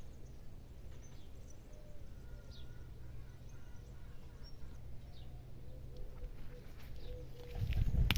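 Outdoor ambience with birds giving a few brief high chirps, spread out, over a steady low rumble. A louder low rumble swells near the end.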